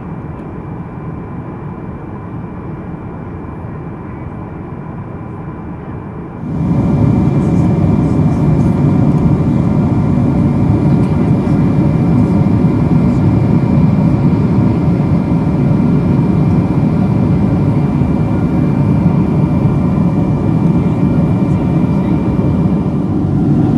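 Boeing 777-200 cabin noise: the steady rush of the jet engines and airflow heard from inside the cabin, with a few faint steady tones. About six and a half seconds in it steps abruptly louder and brighter and stays there.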